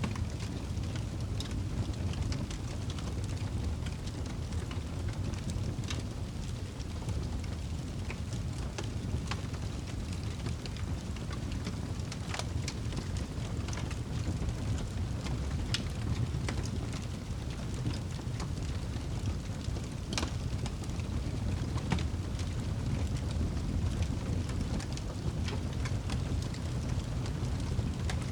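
Wood fire burning in a fireplace: a steady low roar of flames with irregular sharp crackles and pops of burning logs every second or two.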